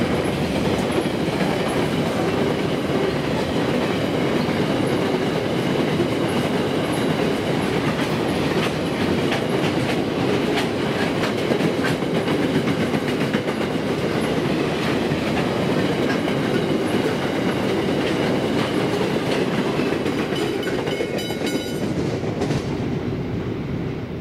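Freight train wagons rolling past: grain hoppers, then container wagons. A steady heavy rumble with wheel clatter and knocks over the rails. The last wagon passes about 22 seconds in, and the noise begins to fade.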